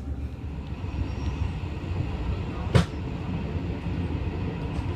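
Sleeper train running, heard from inside the carriage: a steady low rumble, with one sharp knock nearly three seconds in.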